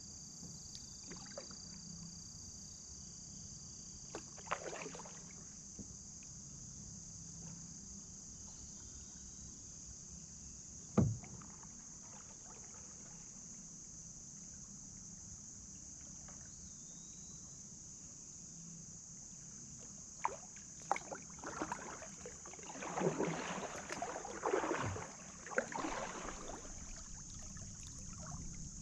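Kayak paddling: scattered paddle splashes and drips, a single sharp knock about eleven seconds in, and a run of several splashing strokes in the last third, over a steady high hiss.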